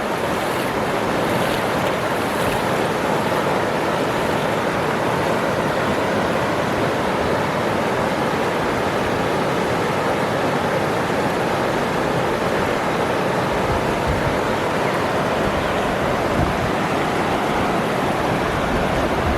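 Waterfall rushing steadily, an even roar of falling water that does not change.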